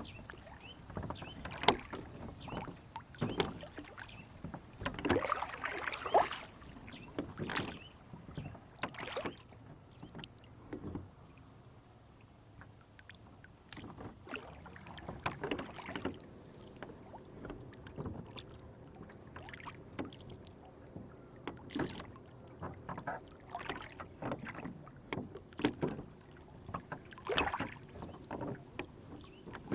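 Rowboat on a lake: oars and water splashing and knocking against the hull in irregular clusters, with quieter stretches of gentle lapping between.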